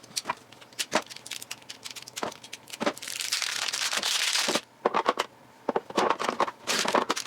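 Crinkling and tearing of packaging with scattered sharp clicks of handling as batteries are unpacked to fit; a denser rustling stretch runs about three seconds in for a second and a half.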